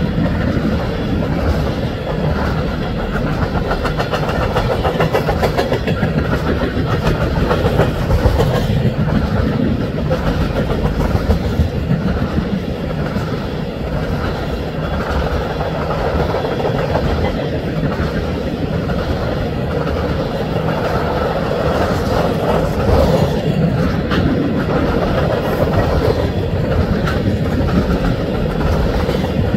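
Freight train of tank cars rolling past: steel wheels rumbling and clicking on the rails in a steady, continuous run.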